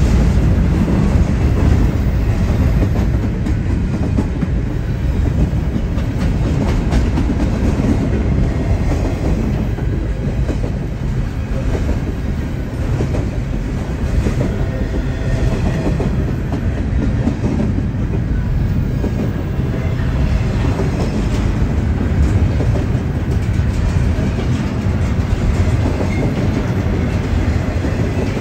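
BNSF double-stack intermodal container train rolling past: a steady, loud rumble of steel wheels on the rails, with repeated clicks as the wheels cross rail joints.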